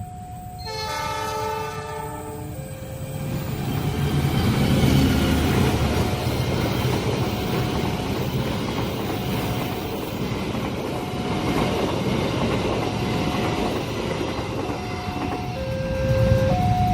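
A train horn sounds a chord for about two seconds, a second in, then a long train passes at speed with a rumble of wheels on rails that builds and holds steady. A level-crossing warning alarm repeats a two-note tone throughout.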